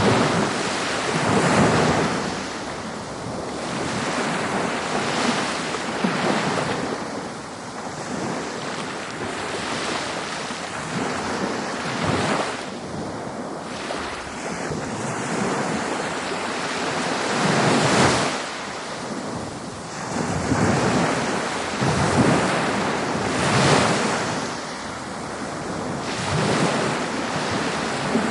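Ocean waves breaking on a beach: a continuous wash of surf that swells and falls back in repeated surges every few seconds.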